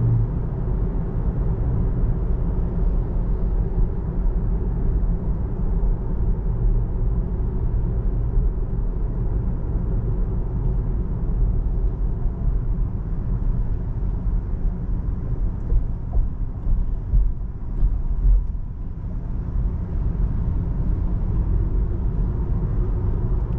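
Steady low road and tyre rumble inside an electric car's cabin at highway speed.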